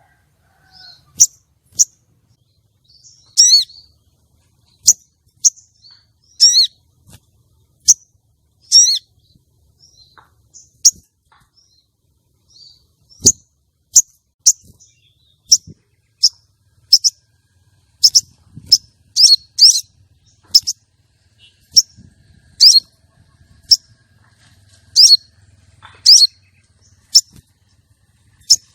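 Female sogon, an Aethopyga sunbird, calling: short, sharp, high chips, often in quick pairs, repeated irregularly about once or twice a second. This is a female's call of the kind that excites male sogon into breeding display.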